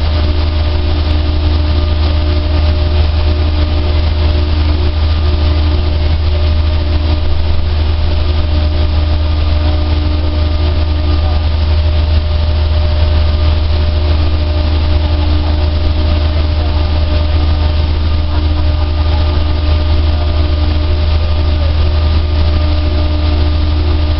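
A dryer running steadily: a loud, even drone with a strong low hum and a few steady tones over it, unchanging throughout.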